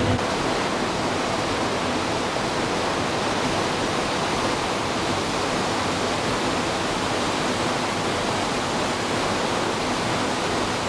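A steady, even rushing noise with no pitch in it, of the kind running water makes.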